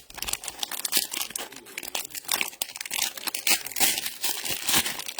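Trading-card pack wrappers and plastic crinkling and tearing as cards are unwrapped and handled, a continuous crackling with many sharp snaps.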